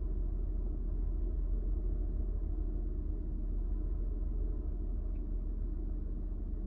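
A 2000 Honda Odyssey's 3.5-litre V6 idling with a steady low rumble. This is the rough idle that the owner links to its oxygen sensors.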